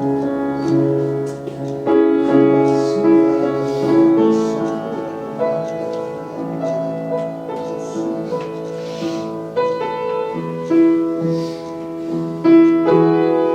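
Soft piano playing slow, held chords that change every second or two, as a quiet background to prayer.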